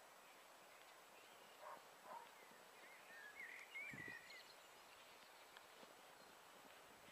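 Near-quiet open air with faint, short bird chirps in the middle, strongest about three and a half to four seconds in, and a soft low thump around four seconds in.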